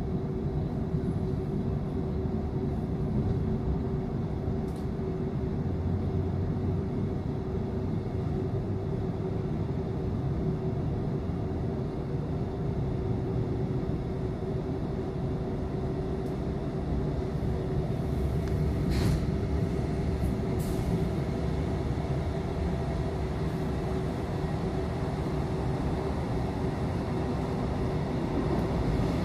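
Running noise of a moving passenger train heard from inside the coach: a steady rumble of wheels on the track with a constant hum, and two brief clicks about two-thirds of the way through.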